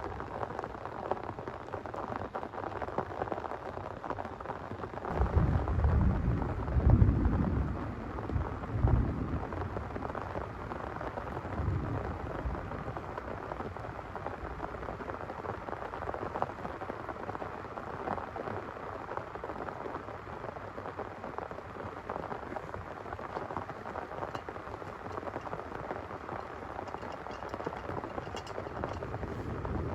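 Heavy rain falling steadily, with a low rumble of thunder starting about five seconds in and lasting several seconds, and a fainter rumble a few seconds later.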